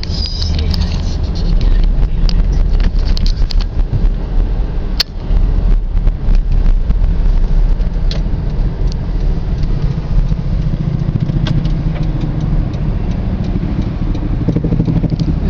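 Steady low engine and road rumble heard from inside a moving car, with occasional small clicks and knocks.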